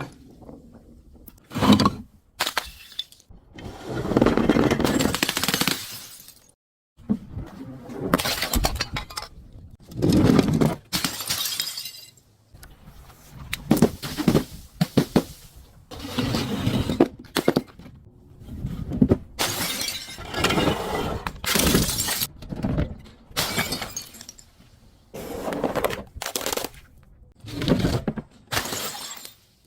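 Glass bottles shattering one after another: a long series of separate crashes of breaking glass, with short pauses between them.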